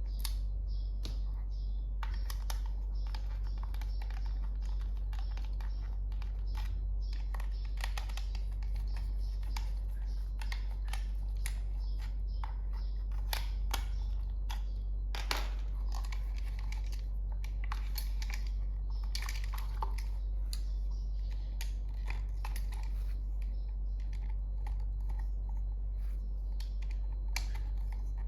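Plastic toy train pieces being handled and fitted together: irregular light clicks and taps, over a steady low hum.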